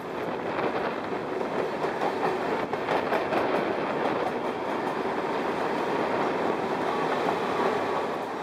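Mumbai suburban electric local trains running side by side: a steady rumble and rattle of steel wheels on the rails, heard from aboard a moving train, with a few faint clicks about three seconds in.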